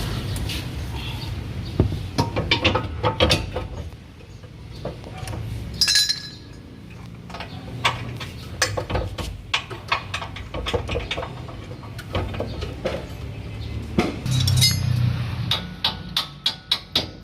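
Metal hand tools clinking and knocking against steel parts in irregular clusters of sharp clicks, as parts of a car's underbody are worked on.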